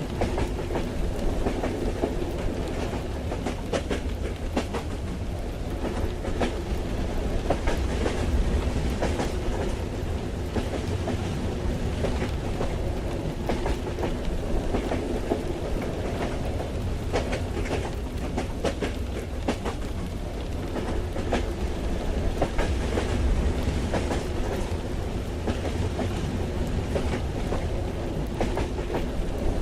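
Interior of a moving train carriage: a steady low rumble of the wheels on the track with frequent clicking and clacking over rail joints, under a steady hiss of rain.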